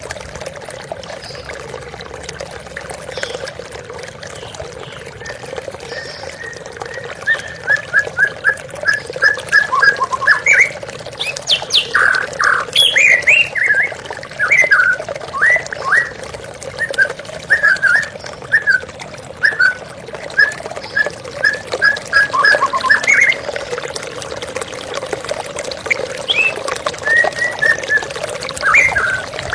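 White-rumped shama (murai batu) singing over a steady rush of flowing water. After several seconds of water alone, the song comes in as runs of short, quick repeated notes, with louder and more varied phrases in the middle.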